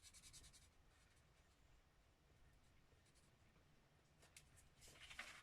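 Brown Sharpie marker scribbling back and forth on paper while colouring in: faint quick strokes during the first second, then again near the end.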